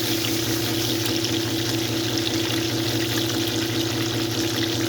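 Hot oil sizzling steadily in a frying pan, over a constant low hum.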